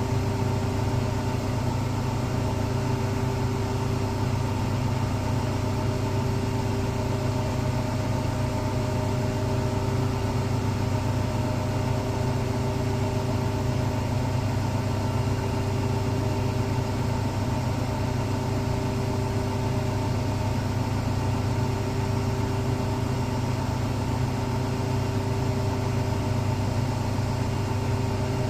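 Electrolux Professional WN6-20 commercial washing machine running a steady high-speed spin: a constant loud hum with a few steady whining tones above it.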